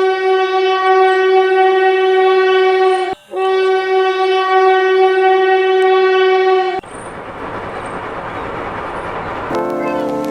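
Train horn sounding two long steady blasts of about three seconds each with a brief gap, followed by about three seconds of rushing train noise on the rails.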